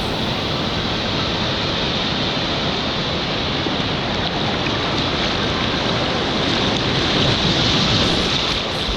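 Ocean surf rushing, with strong wind buffeting the microphone. The rush grows louder about seven seconds in, then eases.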